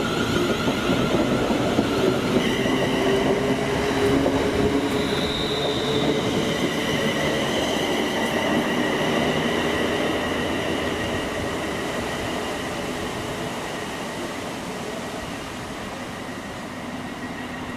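A passenger train running on the rails with a squeal of wheels in several steady high tones over a rumbling noise. The sound fades steadily through the second half as the train moves away.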